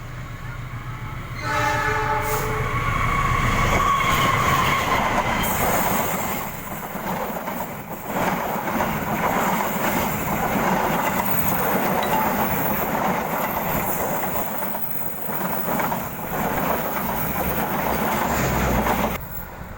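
Dwipangga passenger train passing. The locomotive horn sounds briefly about a second and a half in, then comes the loud rush and rattle of the carriages' wheels over the rails, which drops away sharply near the end.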